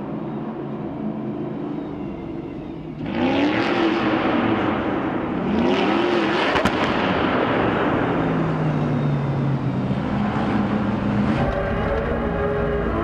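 Stadium Super Truck racing engine, quieter at first and then loud from about three seconds in. It revs up and drops back twice, with one sharp pop in the middle, and then runs hard and steady.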